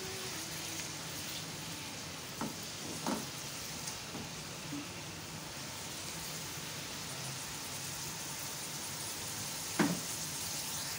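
Grated onions sizzling steadily in hot oil in a pressure cooker as they are fried toward golden brown, stirred with a silicone spatula. A few short knocks of the spatula against the pot come about two and a half and three seconds in, and again near the end.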